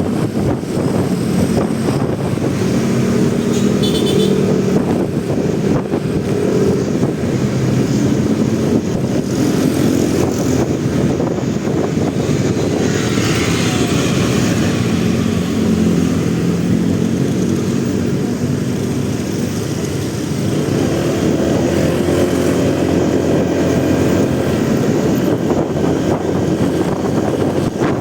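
Motorcycle engine running under way, its pitch rising and falling as the bike speeds up and slows, with steady wind and road noise on the rider's camera microphone. A brief high beep sounds about four seconds in.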